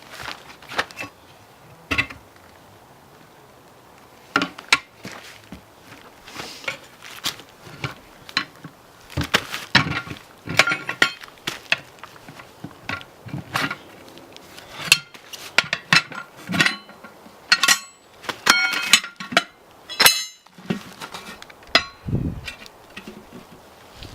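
Irregular metal clanks and knocks of a garden spade and tools working a tyre on a steel wheel rim, a few at first and then in quick succession after about four seconds in, some of them ringing briefly.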